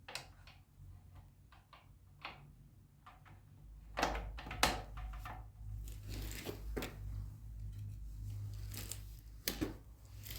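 Scattered clicks and knocks of tools and parts being handled during front fork work on a motorcycle, the loudest about four seconds in and again near the end, over a low steady hum.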